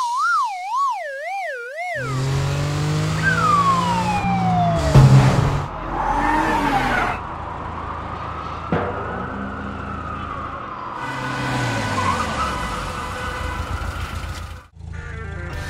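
Cartoon sound effects: a warbling tone that wobbles and drops in pitch for about two seconds, then a car engine running with a falling whistle and a thump about five seconds in, followed by a car engine rising and falling in pitch as it drives past.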